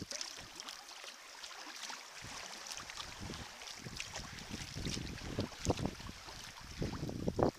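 Sea kayak paddle blades splashing in and out of the water, with water lapping and wind buffeting the microphone. Quiet for the first couple of seconds, then irregular splashes, with the wind gusting harder near the end.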